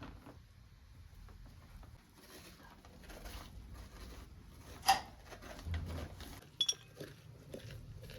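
Handwork noises: soft scraping and rustling with a few sharp clinks, the loudest about five seconds in and a quick pair a little later.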